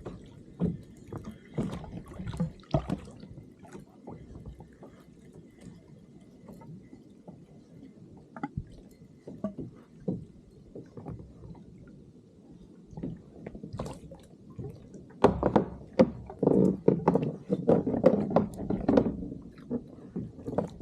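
Water sloshing and splashing around a kayak, with irregular knocks against the hull; the knocking and splashing grow louder and busier near the end.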